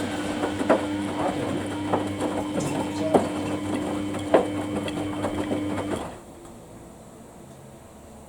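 Samsung washing machine's drum turning the wash: a steady motor hum with a knock of the tumbling load every second or so. About six seconds in the motor stops suddenly, leaving only a faint low hum, the pause between drum turns.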